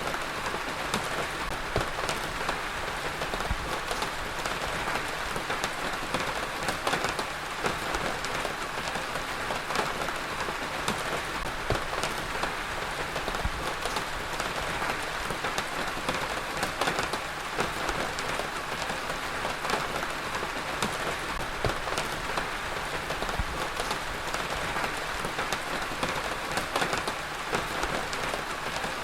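Heavy rain falling steadily on hard surfaces, a dense even hiss dotted with many individual drop hits.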